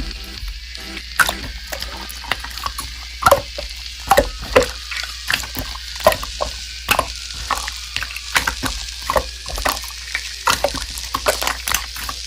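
Slime being squished and poked by hand, with irregular sticky pops and crackles several times a second.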